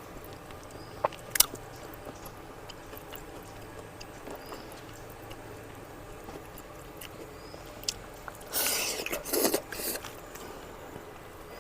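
Close-miked chewing and mouth noises of someone eating, with two sharp clicks about a second in and a louder noisy stretch near the end.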